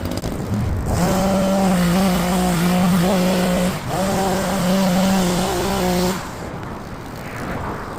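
Powered garden tool running at steady speed in two runs, with a short break near four seconds, a steady hum over a loud hiss.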